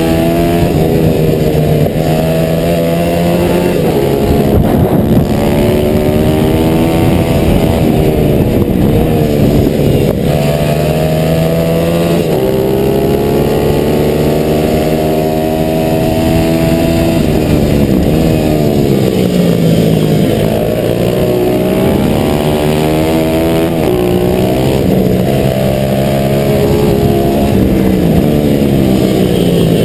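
Onboard sound of a 140 cc single-cylinder pit bike engine at racing speed, its pitch repeatedly climbing as it accelerates and dropping off into corners, with a deep dip about two-thirds of the way through. Wind rushes over the microphone throughout.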